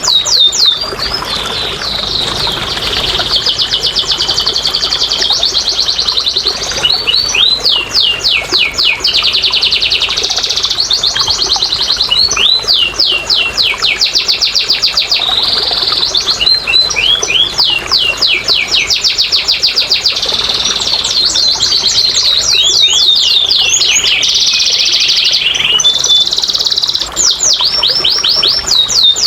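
Domestic canary singing a long, unbroken song: fast runs of repeated notes and rolling trills, each phrase switching to a new rapid pattern every second or two.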